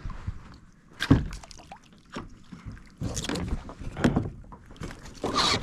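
Irregular knocks and clatter of handling on a fishing kayak: one sharp knock about a second in, then a busier run of knocks and rattles in the second half.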